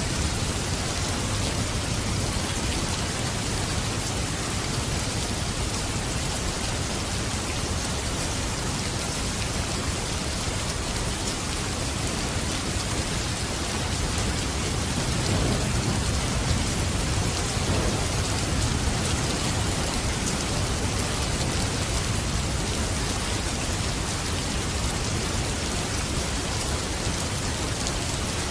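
Steady rain falling and pattering on surfaces in an even, constant hiss. A low rumble swells briefly about halfway through.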